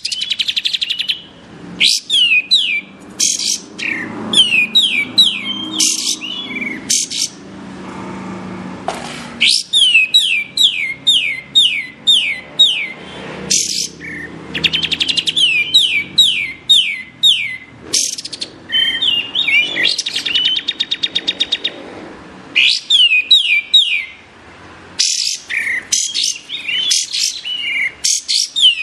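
Kapas tembak songbird singing: rapid runs of sharp, downward-sliding whistled notes, repeated in bursts separated by short pauses, with a fast rattling trill about two-thirds of the way through.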